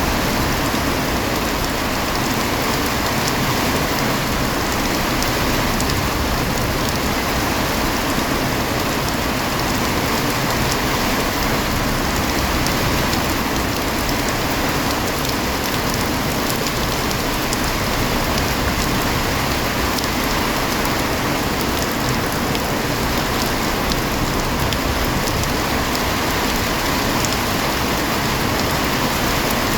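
Heavy rain falling steadily, a dense even hiss with scattered individual drop splashes.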